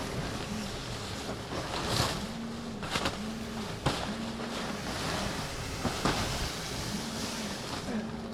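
Wind and sea noise on a sailboat's deck: a steady rush of wind and water, broken by several short sharp rustling bursts. Under it a low hum keeps rising and falling about once a second.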